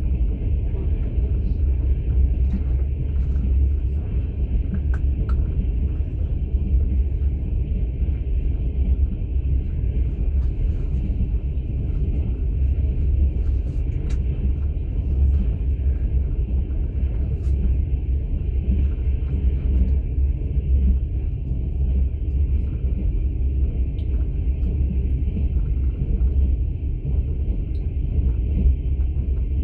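Steady low rumble of a moving passenger train heard from inside a sleeping carriage, with running noise from the wheels and rails and a few faint clicks and rattles.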